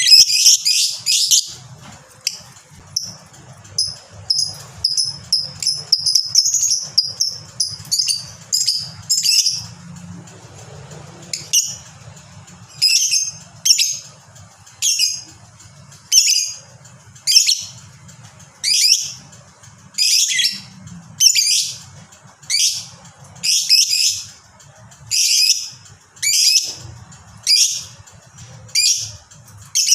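Lovebird singing: a long unbroken chattering run (the prized long 'ngekek') for about ten seconds, then a steady string of sharp, high single calls, a little more than one a second.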